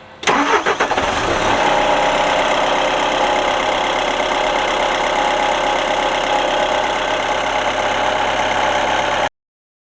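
Linde H40D forklift's Volkswagen diesel engine starting: a brief crank, then it catches and settles into a steady idle. The sound cuts off suddenly near the end.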